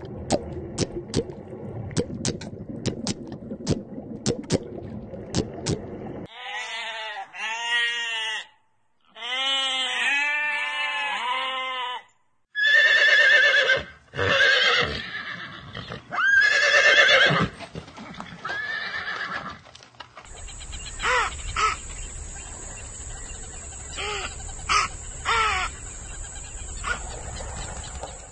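A run of animal calls, among them horse whinnying with a quavering, up-and-down pitch. Before the calls come sharp clicks over a noisy background, and near the end come more clicks over a steady high tone.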